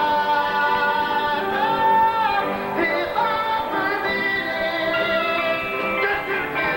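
Gospel singers singing in harmony, with several voices holding long notes.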